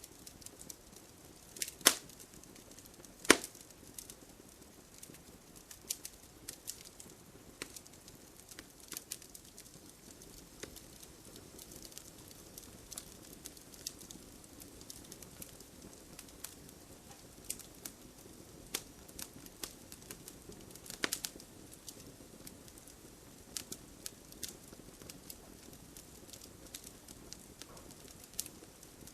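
Wood fire in a fireplace crackling: irregular sharp pops and snaps over a faint low hiss, with two loud pops about two and three seconds in and another a little past twenty seconds.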